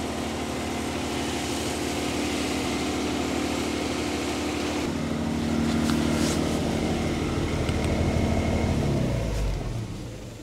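A 1954 Austin A30's small four-cylinder engine, just revived after 52 years laid up and still cold, runs steadily at a fast idle. Its revs rise a little about halfway through. Near the end it is switched off and runs down to a stop.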